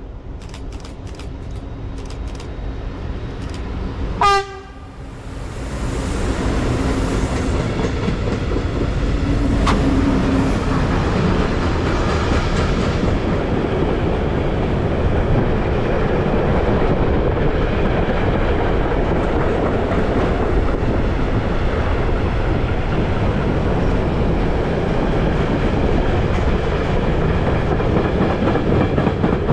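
A train passing, sounding one short horn blast about four seconds in. Then the wheels rumble and clatter steadily over the rails as a long run of cars goes by.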